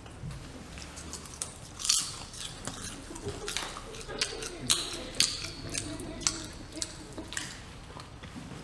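Irregular crunching and crackling clicks at uneven intervals, over a faint low wavering tone.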